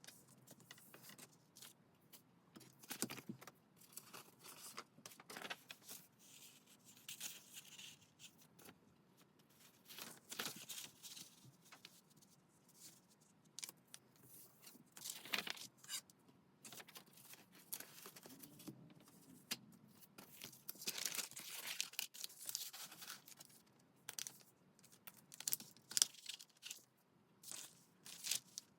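Paper being handled and torn in irregular bursts, with small clicks and taps in between.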